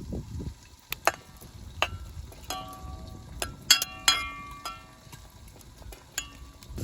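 Metal clinks and clanks, each strike ringing briefly, as utensils knock against metal cookware; about eight irregular strikes, the loudest cluster about four seconds in.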